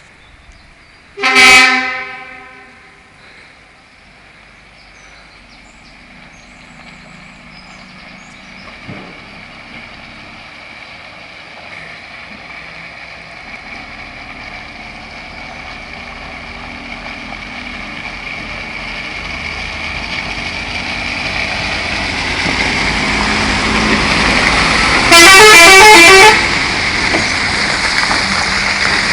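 A horn sounds briefly about a second in. Then a Scania R730 log truck's engine grows steadily louder as it approaches, and the truck sounds a loud horn blast of about a second near the end as it comes close.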